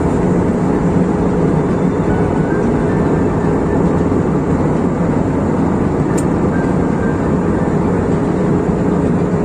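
Steady cabin noise of an airliner in flight: engine drone and rushing airflow heard from inside the passenger cabin, with a low steady hum under it.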